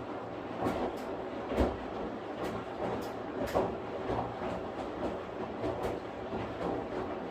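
Washing machine running: a steady hum with irregular knocks and clicks about once or twice a second, the loudest about a second and a half in.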